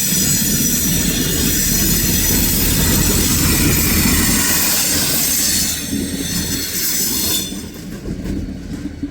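Transfer freight train's cars rolling past, wheels squealing against the rails with several high steady tones over the rumble. The noise drops away suddenly about seven and a half seconds in.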